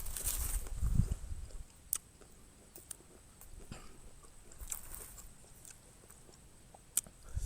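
A person chewing a mouthful of miang made with figs, with wet mouth clicks and smacks. There are heavier low bumps in the first second or so.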